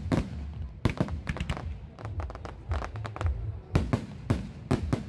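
Aerial fireworks bursting in rapid, irregular succession: sharp bangs and crackles over a low rumble. The loudest reports come right at the start and a little under four seconds in.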